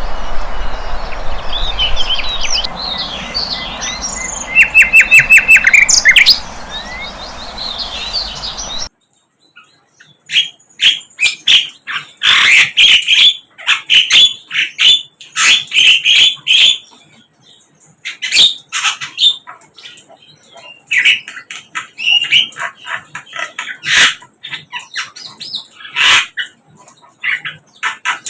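Sikatan londo flycatcher singing: quick bursts of high chirps and short trills. About nine seconds in the recording cuts from one with a steady hiss behind the song to a cleaner one, where rapid chirping phrases come in quick succession.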